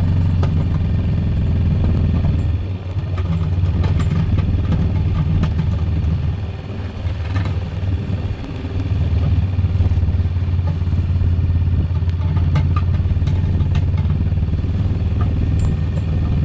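Four-wheeler (ATV) engine running steadily under throttle while plowing snow. The engine note drops briefly about three seconds in and again around seven to eight seconds in. Scattered clicks and clanks sound over it.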